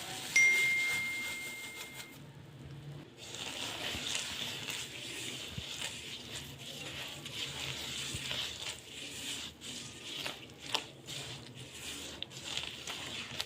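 A single ringing metallic ding, then a steady hiss with many small clicks and scrapes, typical of stirring in a hot pan.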